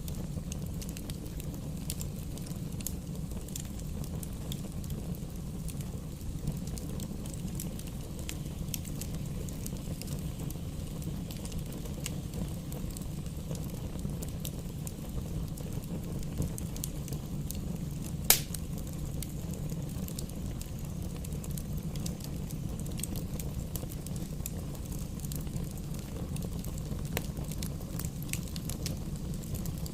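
Wood fire in a fireplace burning with a steady low rumble and scattered small crackles, and one loud sharp pop a little after halfway.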